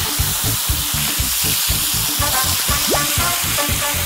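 Food sizzling in a hot frying pan, a steady hiss, under background music with a quick steady beat.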